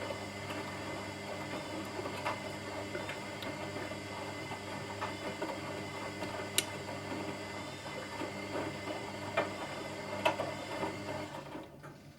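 Washing machine running with a steady motor hum and occasional sharp clicks. About eleven and a half seconds in, the running stops and leaves only a fainter low hum.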